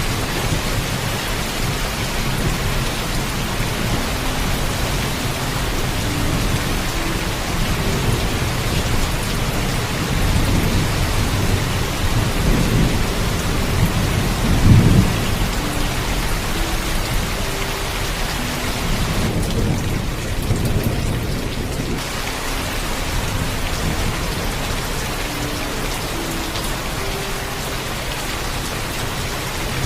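Heavy steady rain with thunder rumbling low, swelling to its loudest about halfway through before easing back.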